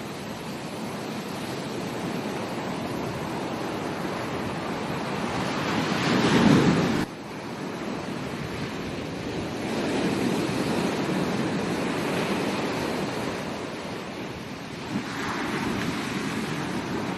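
Ocean waves breaking and washing up on a beach, the surf swelling and ebbing in slow surges; the loudest surge, about six seconds in, cuts off suddenly.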